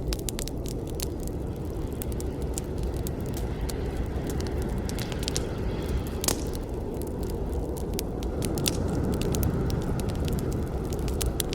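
Campfire burning: a steady low rush of flames with frequent sharp crackles and pops from the burning wood, one louder pop about six seconds in.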